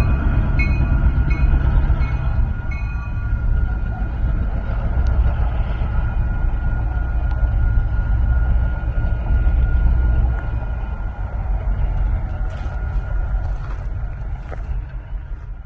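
A train rumbling by: a loud, deep, continuous rumble, with a repeated ringing tone about every two-thirds of a second that stops about three seconds in. The rumble eases off near the end.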